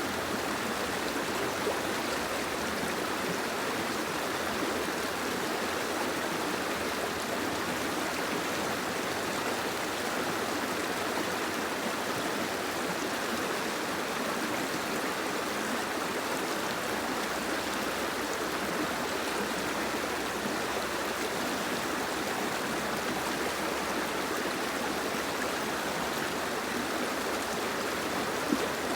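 Steady rain falling, an even rushing hiss of water that never breaks.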